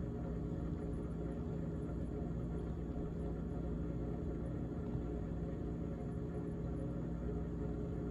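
GE GTH18XCTZRBB refrigerator running, a steady hum of even tones with a buzzy rattle underneath, the rattle that the owner puts down to the evaporator fan.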